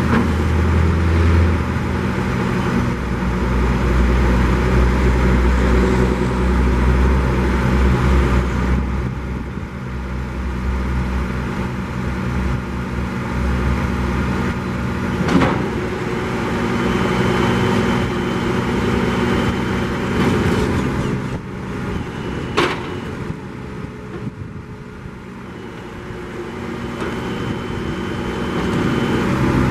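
Diesel engine of a Freightliner M2 grapple truck running steadily. Two sharp knocks come through, one about halfway through and another several seconds later. The sound grows quieter for a while before swelling again near the end.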